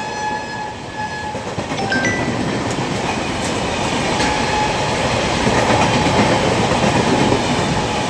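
Kolkata EMU electric local train running past: a horn note cuts off about a second in, then a steady rolling rumble with wheels clicking over the rail joints.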